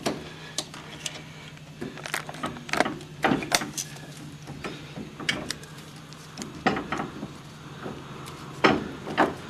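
Irregular metal clinks and knocks as a spring-compressor tool is worked out of the tight hole in a Mercedes 300D's front coil spring seat. The loudest knocks come about three seconds in and again near the end, over a steady low hum.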